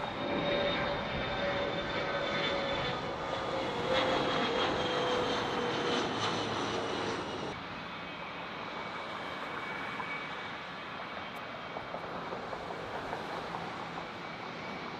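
Jet airliner's engines running as it passes, a loud whine slowly falling in pitch over the noise of the engines, until it cuts off abruptly about halfway through. A quieter, steady engine rumble with wind follows.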